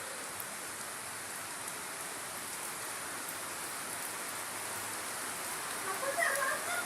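Steady monsoon rain falling, an even hiss. Near the end a few short, louder sounds come in over it.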